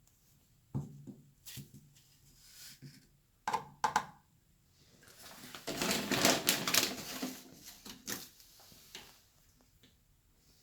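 Clicks and knocks from a 1980s Candy Formula Inox washing machine being handled and set, with a dense run of rapid clicking about halfway through.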